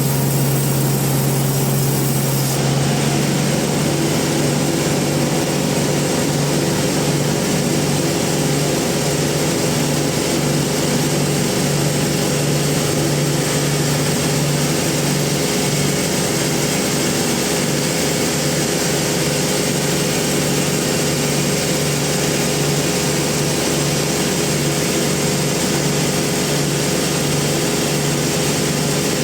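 Industrial bandsaw sawmill machinery running steadily: a constant low mechanical hum with an even hiss on top.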